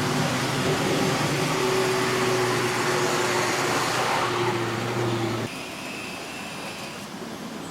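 A steady mechanical hum and rumble with a low drone that cuts off suddenly about five and a half seconds in, leaving a quieter steady hum.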